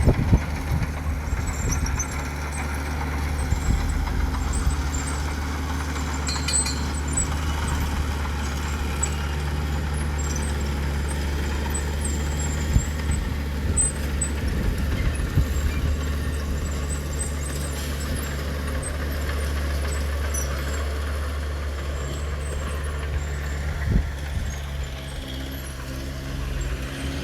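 Heavy diesel engine of earthmoving machinery running steadily at a low pitch, with faint high squeaks and clicks scattered through.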